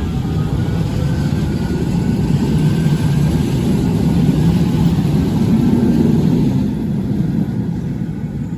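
Manchester Metrolink Bombardier M5000 tram passing: a low rumble that swells to its loudest about halfway through, then fades away.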